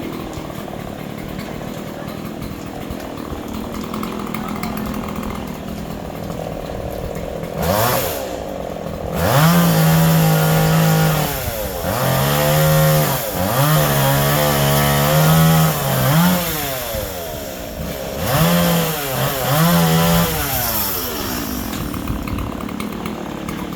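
Chainsaw running steadily, then revved hard about six times from about a third of the way in, its pitch climbing, holding and dropping back with each burst, before settling again near the end.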